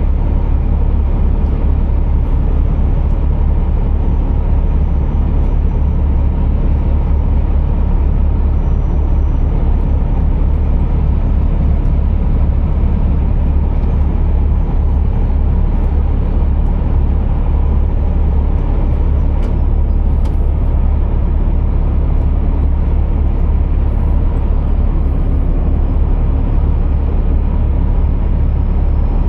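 Scania R480 truck's 13-litre six-cylinder diesel running, a steady low rumble with no change.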